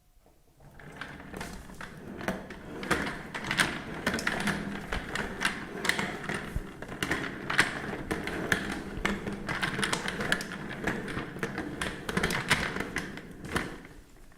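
Drill machine running with a rattling, irregular clicking and knocking over a steady noise. It fades in over the first two seconds.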